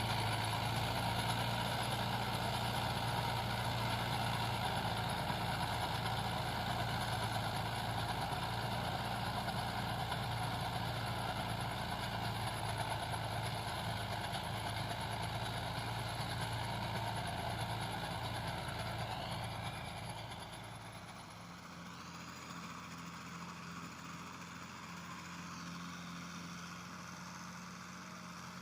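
Mahindra tractor's diesel engine running steadily while plowing, growing quieter about three-quarters of the way through.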